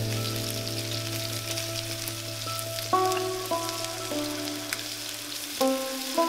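Chicken thigh pieces and firm tofu sizzling in oil in a nonstick frying pan: a steady hiss with small crackles. Background music plays over it, with new notes struck about halfway through and near the end.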